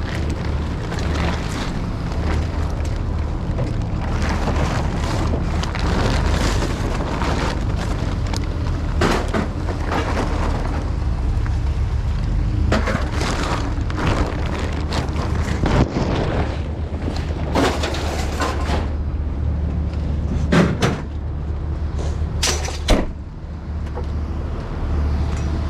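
Scattered knocks and bangs of scrap being handled and unloaded, with a few sharper bangs in the second half, over a steady low rumble.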